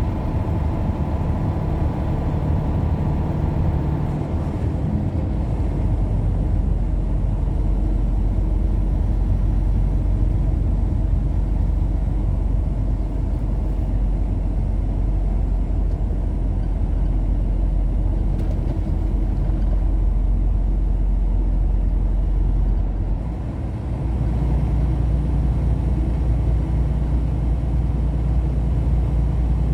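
Car driving, with steady engine and road noise; the low hum shifts about five seconds in and again near the end.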